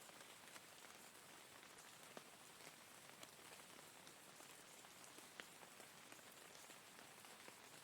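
Faint, steady rain falling, an even hiss with scattered single drops ticking through it.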